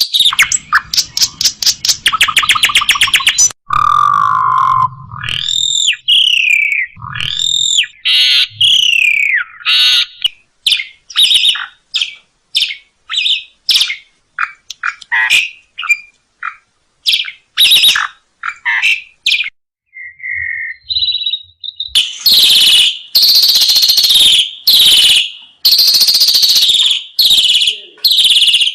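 Asian pied starling song, a varied run of mimicked phrases: a fast trill at first, then whistled up-and-down glides, a string of short chirps, and loud harsh notes near the end.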